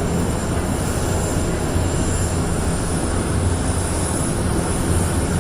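Airbus A350-1000 airliner flying past at low speed, its two Rolls-Royce Trent XWB turbofans making a steady low rumble, quiet for a jet of its size.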